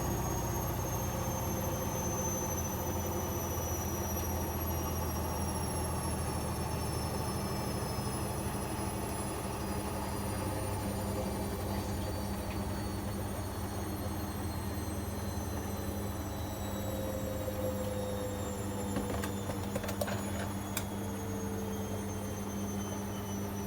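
Bosch Avantixx 7 washing machine slowing down from its spin: the drum motor's whine falls steadily in pitch over a low steady hum. A few light clicks come near the end.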